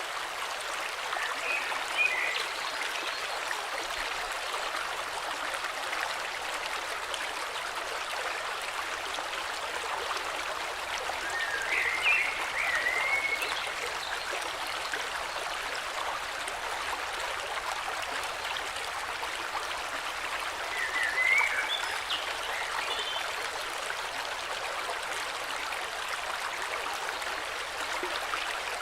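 A river flowing with a steady rush of water. A songbird sings a short chirping phrase over it three times, roughly every nine to ten seconds.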